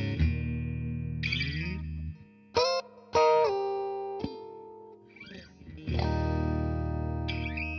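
Electric guitar played through a Fender Tone Master Deluxe Reverb amp: chords struck and left to ring out and fade, with a few notes sliding down in pitch partway through and a new chord about six seconds in.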